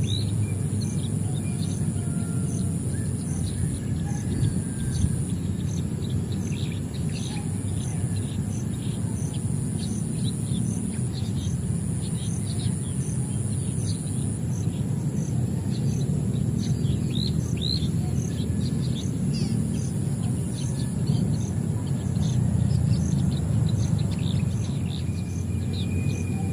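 Birds chirping in many short, scattered calls, over a steady low background rumble and a thin, steady high-pitched tone.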